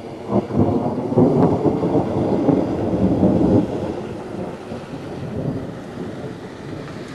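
Thunder rumbling: a low rumble that swells about half a second in, stays loud for a few seconds, then eases off.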